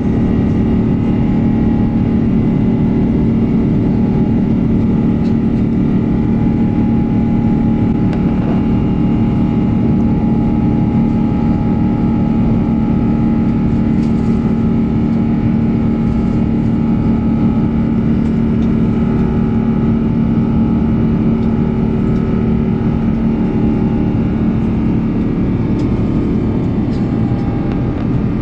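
Cabin noise of an Airbus A350-900 during takeoff, heard from a passenger seat: the Rolls-Royce Trent XWB engines running at steady high thrust, with several constant hums over a loud, even rush of engine and air noise.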